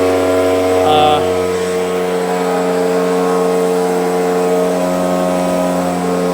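Stihl BG 86C handheld leaf blower's small two-stroke engine running at a steady, unchanging speed.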